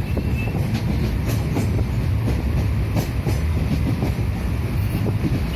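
Netravati Express passenger train running on the rails: a steady low rumble with scattered wheel clacks and rattles.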